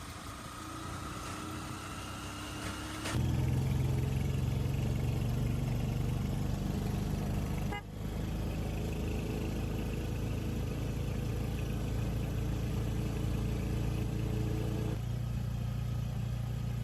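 Motor vehicle engine running, first with a slowly rising pitch, then, after an abrupt jump about three seconds in, as a louder steady low drone.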